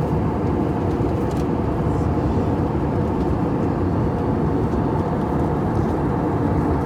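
Steady airliner cabin noise in flight: an even, low rumble of engines and airflow.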